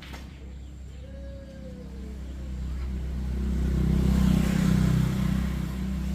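A motor vehicle engine running, growing steadily louder to a peak about four seconds in and then easing off a little.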